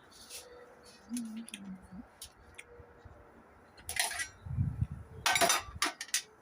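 Dishes and cutlery clinking in scattered light ticks, with two louder clatters in the second half.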